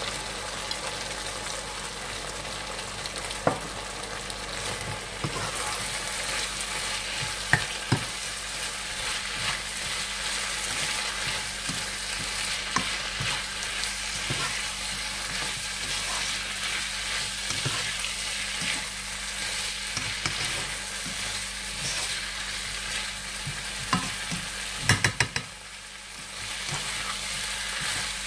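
Chicken and vegetables sizzling in a hot non-stick wok as a spatula stirs them. Now and then there are sharp taps of the spatula on the pan, with a quick run of taps near the end.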